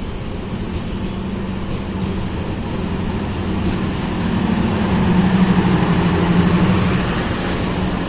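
Diesel locomotive engine running with a steady low drone that swells about five seconds in and eases near the end, as a train moves through the station.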